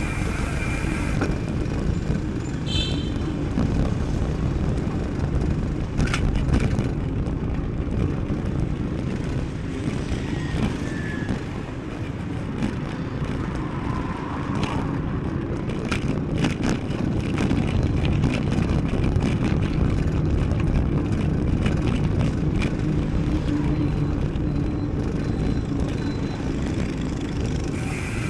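Mountain bike riding noise picked up by a chest-mounted action camera: a steady low rumble of wind on the microphone and tyres rolling over the trail, with scattered knocks and rattles from the bike.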